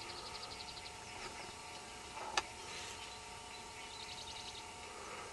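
Birds chirping outdoors in short rapid runs of high notes, heard near the start and again about four seconds in. A single sharp click cuts through about two seconds in.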